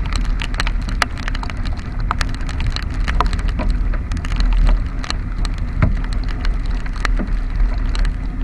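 Raindrops striking a waterproof camera housing as many sharp, irregular ticks, over the steady low rumble of wind and a Honda Vario scooter riding in the rain.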